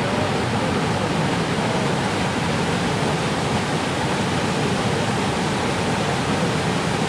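Waterfall: water pouring over Kings River Falls, a loud, steady rushing with no breaks.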